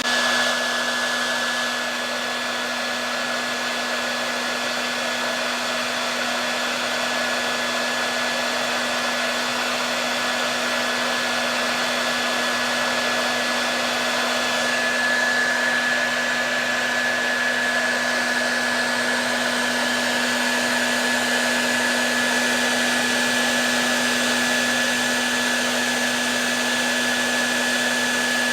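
Hair dryer running steadily: a continuous rush of air over a low motor hum, with a thin high whine that grows stronger about halfway through.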